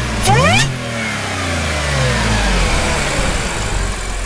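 Audi S4 B8's supercharged 3.0 TFSI V6 on an APR Stage 1 tune with an open cone intake, blipped sharply once about a quarter second in, then its revs falling slowly back toward idle. The supercharger whine drops in pitch along with the revs.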